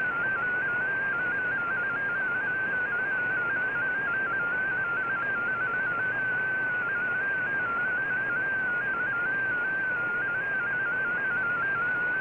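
MFSK digital text signal received on a shortwave radio: a single tone near 1.5 kHz hopping quickly among a few close pitches, over steady receiver hiss.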